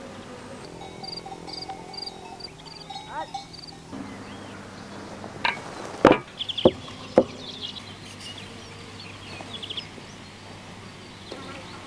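Four sharp knocks in quick succession in the middle, over a background of repeated high chirping from insects or birds outdoors.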